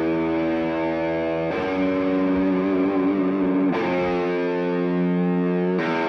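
Live rock band instrumental: a distorted electric guitar holds sustained chords that change every two seconds or so, three changes in all.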